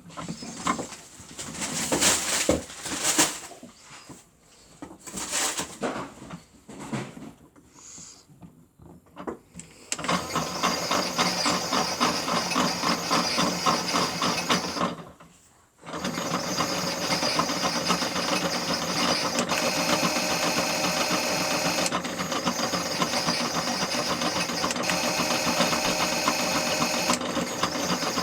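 A few irregular clicks and knocks, then about ten seconds in the small electric motor of a toy Miele W1 washing machine starts turning the drum with a steady, evenly pulsing whir. It stops for about a second midway and then starts again.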